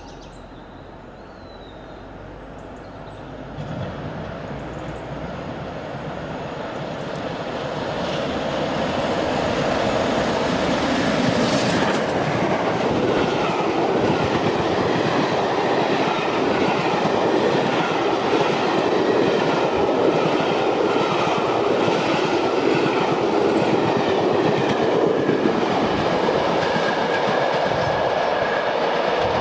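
Steam-hauled passenger train running on the rails, its wheels clattering over the rail joints. It grows louder over the first ten seconds, then runs on steadily.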